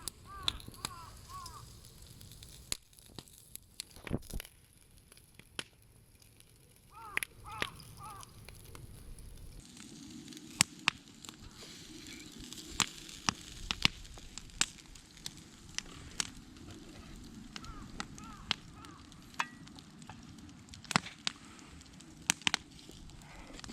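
Wood campfire crackling with sharp pops, and meat sizzling on the grill over it, the sizzle growing stronger about ten seconds in.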